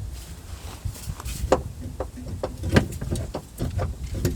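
Irregular metallic clanks and knocks of tools and parts being worked on a car's steering rack and pipe, over a steady low rumble.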